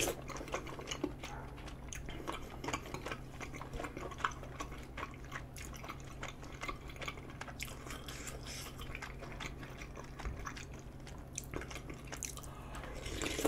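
Close-miked chewing of tteokbokki rice cakes in spicy sauce: soft, wet mouth sounds with many small irregular clicks.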